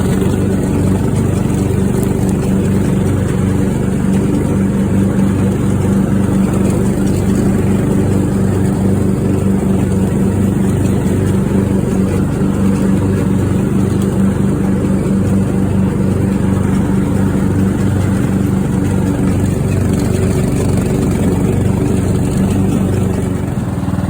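Craftsman riding mower's engine running steadily, now that a new fuel shutoff solenoid, fuel filter and spark plug let it keep running; the note shifts and drops a little in level just before the end.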